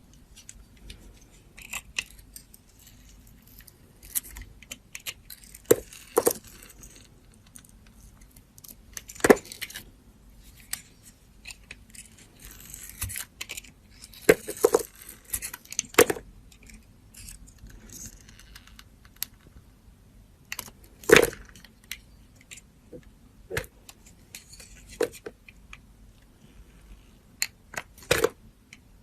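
Dry soap being cut and crunched: crisp snaps and crunches at uneven intervals, a few much louder than the rest, with quiet scraping between them.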